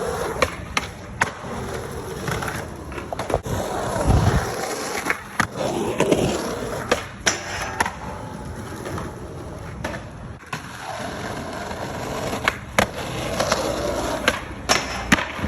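Skateboard rolling on pavement, the wheels making a continuous rumble, broken by many sharp clacks of the board hitting the ground.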